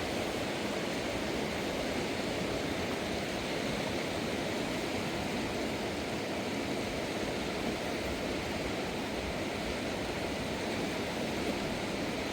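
A fast mountain river rushing steadily, an even noise of water that does not change.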